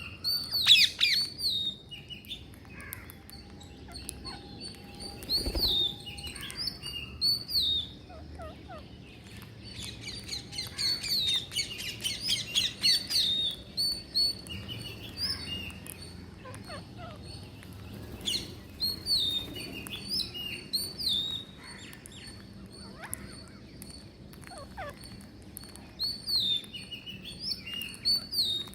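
Green parrots calling: short, shrill chirps and squawks in scattered bursts, thickest around the middle.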